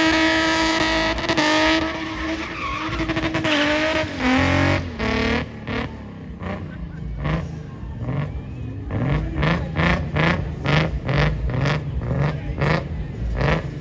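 A car engine held at high revs with tyres skidding, falling away about four seconds in, then a rapid run of short, sharp revs, about three a second.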